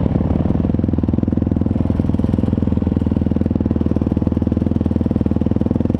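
Motocross bike engine running at a steady, even speed, with a fast regular pulsing beat.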